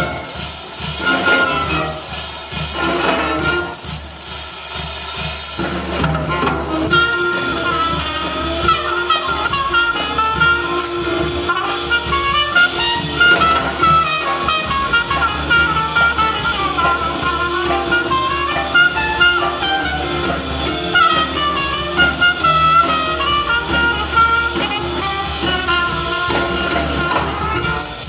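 Live jazz band playing: trumpet, saxophones and trombone over piano, bass and drums. It opens with a few seconds of loud accented ensemble hits, then the horns carry a sustained melody line.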